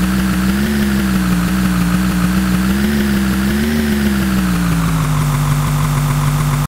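BMW i8's turbocharged three-cylinder engine revved while stationary in neutral, its note held high with gentle rises and falls, then dropping to a lower steady note about two-thirds of the way through as the revs fall back toward idle.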